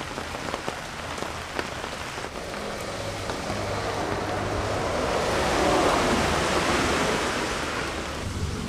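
Rain falling steadily on garden plants, with scattered drop ticks; the rain swells louder around the middle and eases again near the end.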